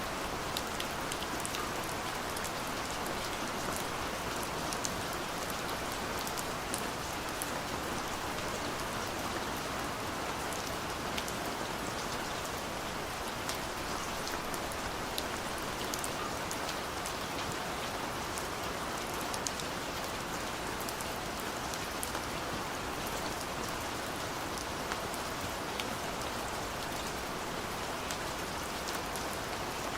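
Steady light rain falling, with an even hiss and many small drops ticking on a surface.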